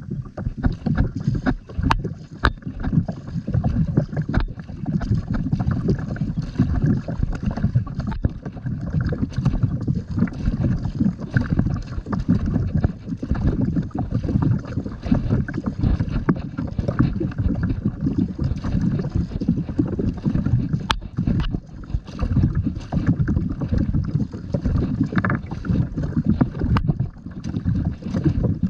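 Wind buffeting the microphone out on a kayak, a dense low rumble that swells and drops irregularly, with water sounds beneath it.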